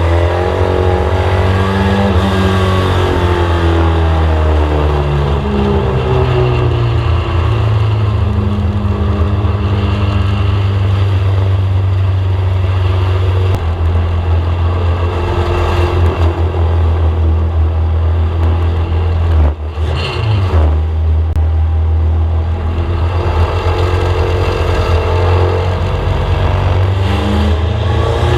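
VW Scirocco race car's four-cylinder engine running hard, heard from inside the car, its revs rising and falling in slow waves. It drops off briefly about two-thirds of the way through, then comes back up.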